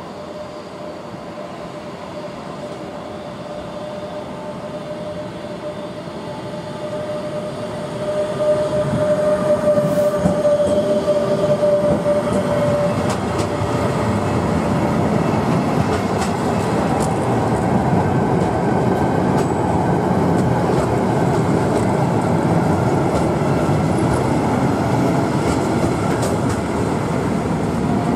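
A freight train with a Green Cargo Re electric locomotive passing through a station. It grows louder as the locomotive goes by about 8 seconds in, with a steady tone over the early part. Then comes the rumble and clatter of the covered freight wagons rolling past.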